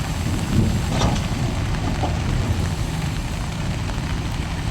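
Heavy diesel earthmoving machinery running with a steady low rumble, with a metallic clank about a second in.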